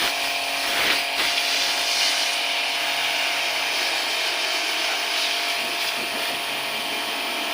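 A machine running steadily: a constant hiss with a faint steady hum under it, and a couple of brief knocks about a second in.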